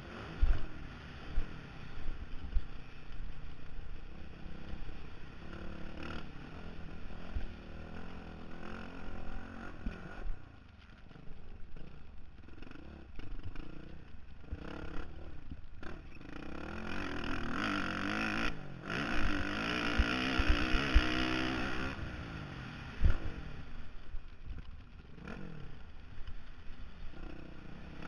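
Honda CRF450R single-cylinder four-stroke dirt bike engine revving up and down as the throttle is opened and chopped, with a long high-rev pull past the middle. Wind buffeting and thumps hit the helmet microphone.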